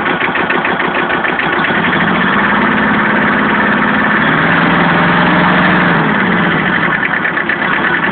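Kubota B7000's two-cylinder diesel engine idling steadily with the hood open, its fast regular knock running throughout. A low steady hum joins it from about two seconds in and fades out a little after six seconds.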